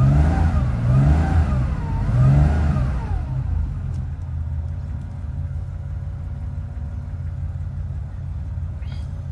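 1980 Porsche 911SC's air-cooled 3.0-litre flat-six running just after a cold start. The revs rise and fall three times over the first three seconds, then settle into steady fast running as the cold engine is held on the warm-up regulator of its fuel injection.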